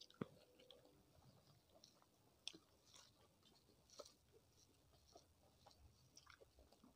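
Faint chewing and mouth sounds of someone eating rice and curry by hand, with a few soft, sharp clicks scattered through, the sharpest just after the start.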